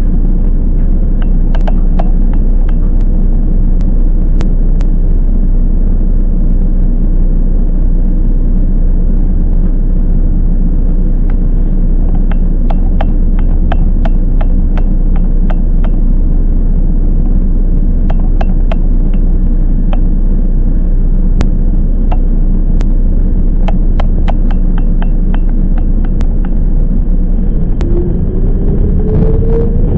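Toyama Chiho Railway 10030-series electric train heard from inside the car: a steady low rumble with scattered sharp clicks. Near the end a rising motor whine as the train accelerates.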